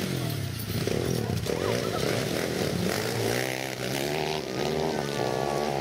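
Several motocross bikes' engines revving together, their pitch rising and falling as the throttles are worked.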